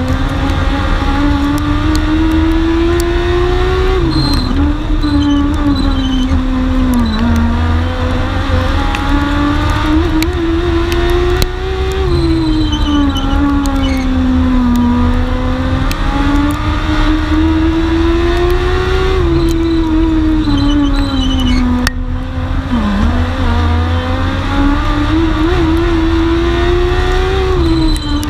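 Dwarf race car's motorcycle-type engine heard from on board at racing speed. The revs climb for several seconds, then drop, in a repeating cycle about every eight seconds as the car laps the oval. A steady low rumble runs beneath.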